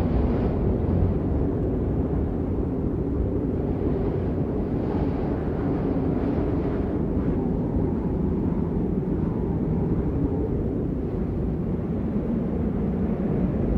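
Steady rain as a dull, even rush, heavy in the low end.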